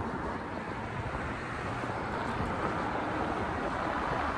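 Steady rushing wind noise on the microphone of a moving electric bike, with a low road rumble. It grows slightly louder toward the end.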